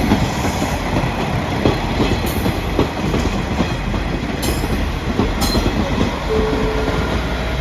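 A train rolling along the rails with a steady rumble and rattle of its wheels, and a few brief high squeals.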